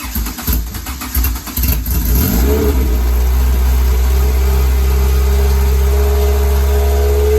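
Freshly rebuilt Honda B-series VTEC four-cylinder cranking on the starter on its first start-up. It catches about two and a half seconds in, its pitch rising, then settles into steady running.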